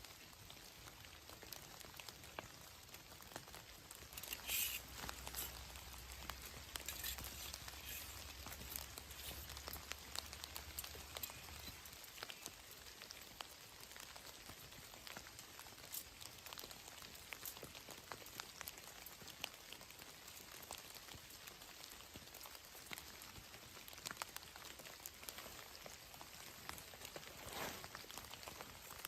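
Faint rain pattering, with many separate drops ticking on a surface and a couple of brief louder rustles.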